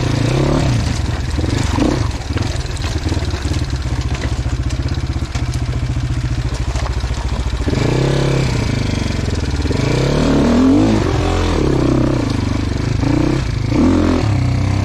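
Dirt bike engine running under load while being ridden off-road. From about eight seconds in, the revs rise and fall repeatedly as the throttle is worked.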